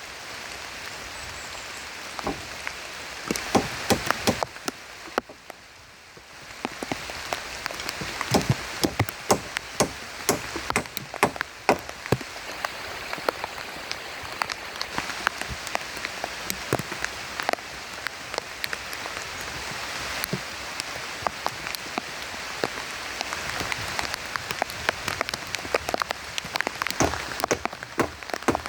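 Heavy rain falling on a camp shelter, with many individual drops landing as sharp ticks over a steady hiss. It eases briefly about five seconds in, then picks back up.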